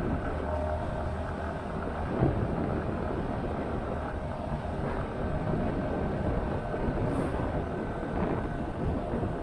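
Motorcycle engine running steadily under way, with wind and road noise over the microphone; a short knock sounds about two seconds in.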